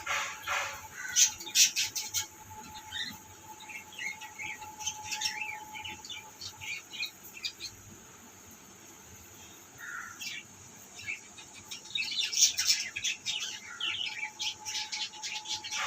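Birds chirping and tweeting in quick runs of short, high notes, busiest about a second in and again after about twelve seconds, with a lull in between.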